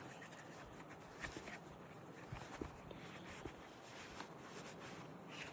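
Faint handling sounds as a tool bag is moved off the motorcycle: soft rustling with a few scattered light knocks.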